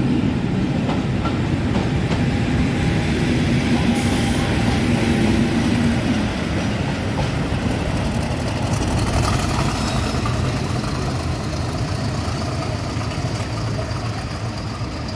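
Train hauled by Class 50 diesel locomotives 50007 and 50049 running past: a steady rumble with wheels clicking over the rail joints, easing slightly toward the end.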